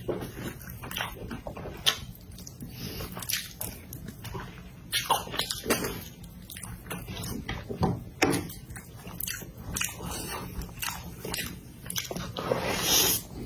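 Close-miked eating of noodles: repeated wet chewing and smacking clicks, with a louder slurp about a second before the end.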